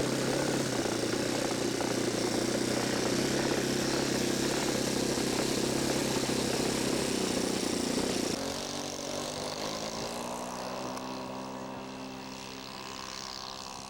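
Radio-control model airplane engine running steadily at high power. About eight seconds in, the sound drops abruptly, then falls slowly in pitch and fades as the plane flies away.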